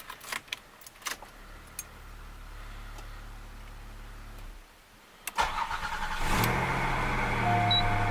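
A 1987 Oldsmobile Toronado's 3.8-litre V6 on its first start after new valve cover gaskets and spark plugs. After a few key clicks a low hum runs for about three seconds. Then the starter cranks for about a second, just past five seconds in, and the engine catches and settles into a steady idle.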